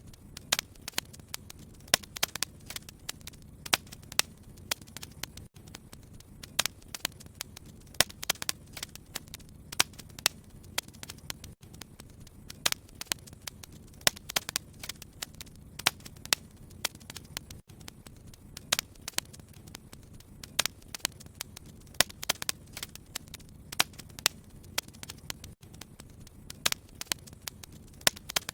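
Wood fire crackling in a fireplace: irregular sharp pops and snaps, several a second, over a steady low background of the burning logs.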